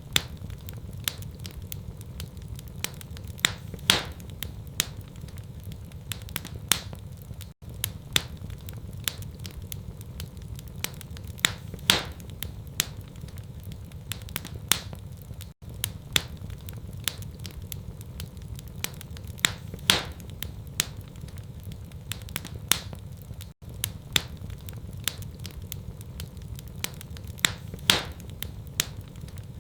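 Wood fire in a fireplace crackling, with frequent sharp pops over a steady low rumble. The same eight-second stretch of crackling repeats, with a brief gap at each repeat.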